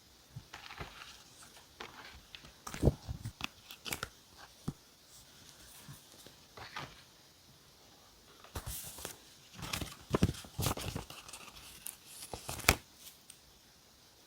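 Paper being handled close up: irregular bursts of rustling, crinkling and tearing, with a few sharp taps.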